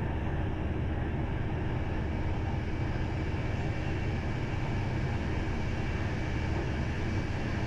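PKP Intercity passenger train running at about 160 km/h, a steady, even rumble of the running gear on the track heard from inside the carriage.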